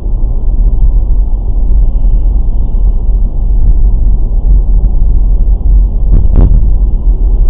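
Loud, steady low rumble of a car driving, picked up by a dashcam, with one short sharper noise about six seconds in.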